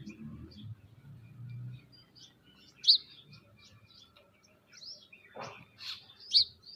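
Small birds chirping, many short high calls, with two loud sharp chirps about three seconds in and near the end. A low hum fades out in the first two seconds.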